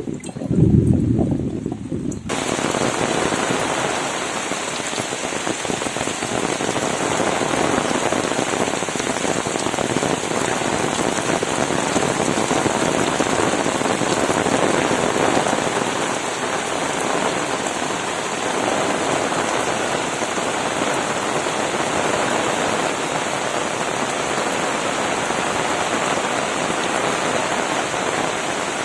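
Heavy rain pouring down steadily, a dense even hiss of drops. In the first two seconds there is a loud low thump, then the rain comes in abruptly at full strength about two seconds in.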